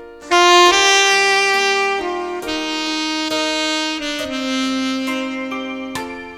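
Saxophone playing a slow, sustained melody of a Korean ballad, with lower accompanying notes held beneath. A new phrase enters about a third of a second in and tapers off near the end.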